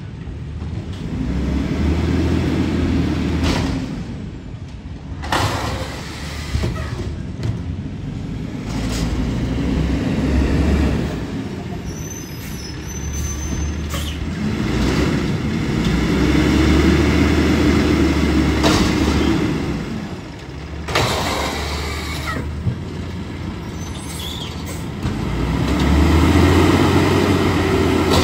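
Garbage truck engine revving up and settling back about four times, each rise lasting a few seconds, with a few metallic clanks in between.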